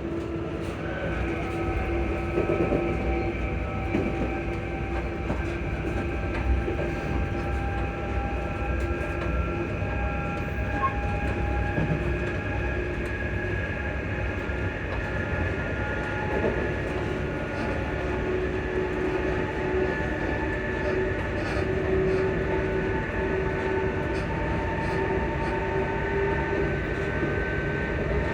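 Class 334 electric multiple unit's traction motors whining on the move: several tones climbing slowly in pitch as the train gathers speed, over the low rumble of wheels on rail. The title calls these odd motor sounds.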